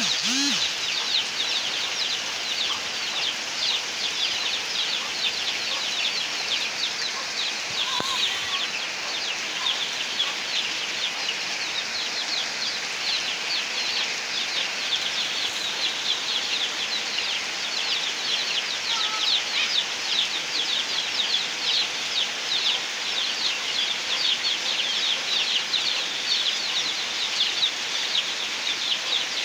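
Heavy rain falling on a dirt road and foliage, a dense steady patter with no letup.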